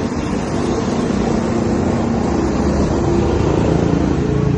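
Car engine running with a steady, low drone, its pitch shifting slightly.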